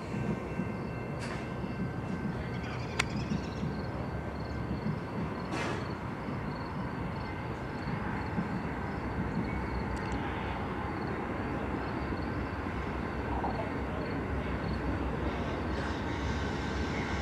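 Low rumble of a distant Amtrak diesel passenger train approaching, growing slowly louder. A single sharp click comes about three seconds in.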